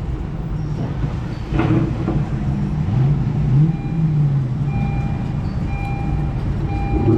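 Car engine running under a steady rumble, its pitch climbing and dropping a few times as it revs and accelerates.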